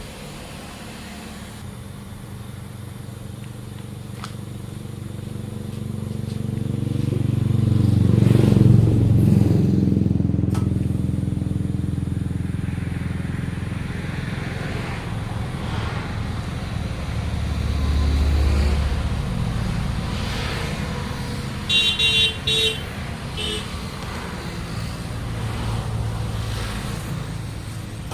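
Motor vehicle engines passing close by, the engine sound swelling and fading twice, with a few short horn toots about two-thirds of the way through.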